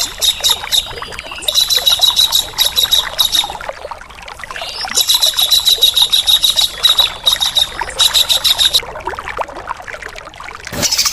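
Harsh, rapid rattling bird calls on a bird-song training (masteran) recording that combines tengkek udang kingfisher and cucak jenggot bulbul calls. The calls come in four bursts of a second or two each, with short gaps between them, over a steady trickle of running water.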